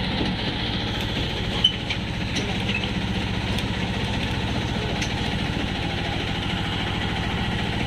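Steady rumble of a train running, with one brief sharp click about a second and a half in.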